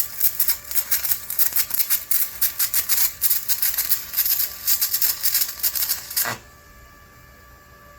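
Stick (shielded metal arc) welding: the arc of a flux-coated electrode crackles and spits rapidly and unevenly while a weld bead is run. About six seconds in the arc breaks off suddenly with a short thump as the pass ends, leaving a faint steady hum.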